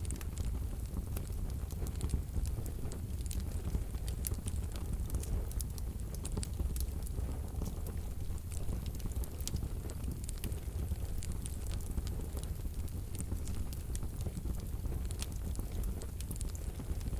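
Wood fire burning in a wood-burning stove: a steady low rumble of the flames with frequent small crackles and snaps from the burning wood.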